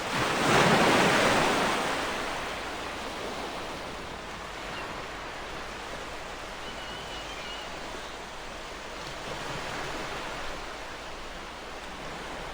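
Ocean waves breaking on a shore. One wave surges in loudly in the first two seconds, then falls away into a steady hiss of washing surf.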